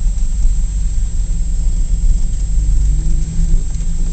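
A 1941 Plymouth's flathead six-cylinder engine and road noise heard from inside the cabin while the car drives: a steady low rumble, with the engine note rising slightly about three seconds in.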